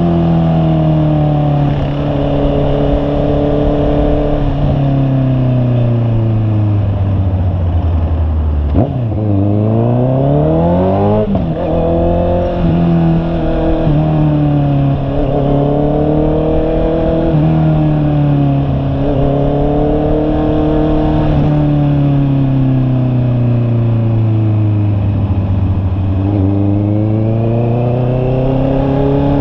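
Honda CB650R's inline-four engine running on the road, its pitch climbing and falling as it is ridden through the gears, with a deep drop and sharp climb in revs about ten seconds in.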